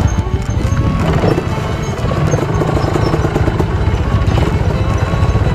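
Trail motorcycle engine running at low revs on a rocky, slippery downhill, with background music over it.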